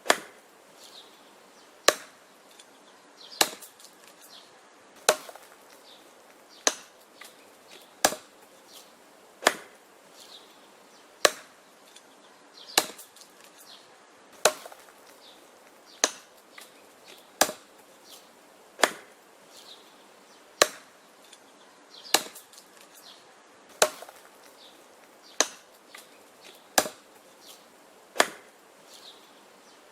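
Wood being chopped: sharp, evenly spaced blows about every one and a half seconds, each followed by a fainter knock.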